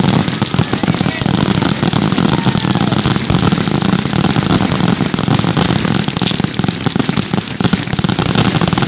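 Fireworks going off in a dense, continuous barrage of rapid crackling bangs.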